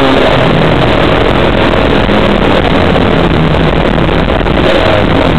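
Car engine running hard, heard loud from inside the cabin with road and wind noise; its pitch drops off just as the sound begins, then holds fairly steady.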